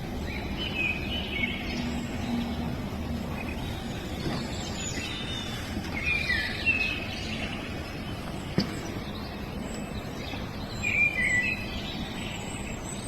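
Small birds chirping in short bursts over a steady low background noise, with calls about a second in, around six seconds in and again near the end; a single sharp click a little past halfway.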